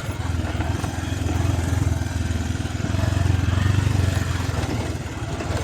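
Motorcycle engine running steadily while riding, a low, fast-pulsing hum with a broad hiss of wind and road noise over it.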